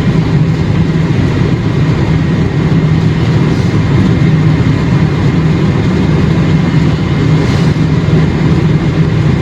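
Steady road and engine noise heard inside a moving vehicle's cabin: an even low rumble that does not change.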